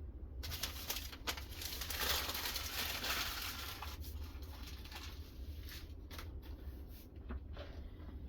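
Handling noise while a guided knife-sharpening system is changed over to another knife and stone set: a few seconds of rustling and crinkling, then scattered clicks and knocks.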